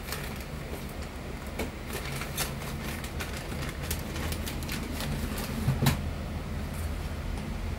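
Samsung Wind-Free Classic air conditioner's indoor unit running its self-check: a steady low hum with scattered clicks and knocks, the loudest about six seconds in.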